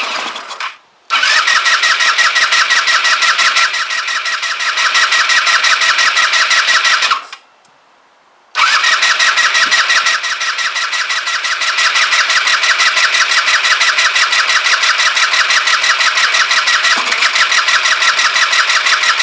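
Kymco Agility 125 scooter's electric starter cranking its single-cylinder engine in three bursts with short pauses between, a fast, even pulse to each burst. The engine turns over but does not catch: a fuel-related starting fault.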